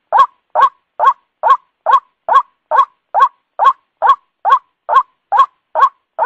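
White-breasted waterhen calling: a short note sweeping up to its peak, repeated evenly about twice a second, the bird's loud ruak-ruak call.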